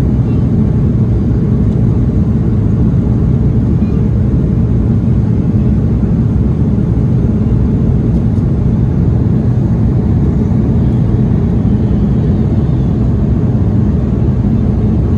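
Steady low rumble of an Airbus A330-300's engines and airflow heard from inside the passenger cabin, holding an even level throughout.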